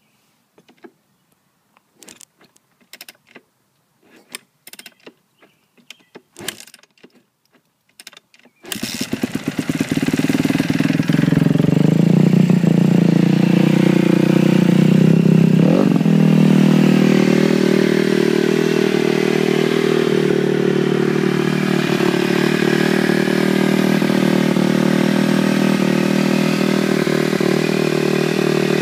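A few seconds of scattered short knocks and clicks. Then, about nine seconds in, the 2011 Kawasaki KX250F's single-cylinder four-stroke engine catches and runs loud through its Dr. D full stainless exhaust system. About seven seconds after it catches, it gives one brief rev, then settles to a steady idle.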